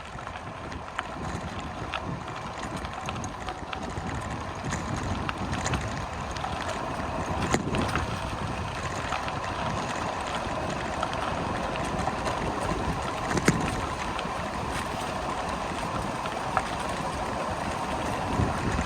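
Wind rushing over the microphone of a moving bicycle, with steady tyre noise and scattered small clicks and rattles.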